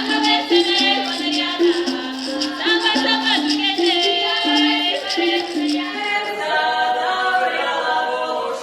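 Children's folk ensemble singing a fusion piece with a rattle or shaker keeping time over stepping melodic notes. About six seconds in the rattling stops and the voices hold long chords.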